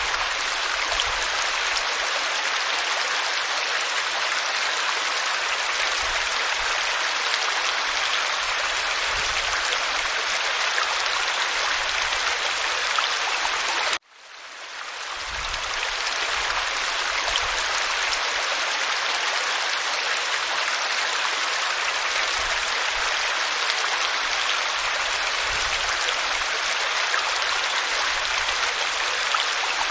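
Waterfall pouring over rock: a steady rush of falling water. About halfway through it cuts out abruptly and fades back in over a second or two.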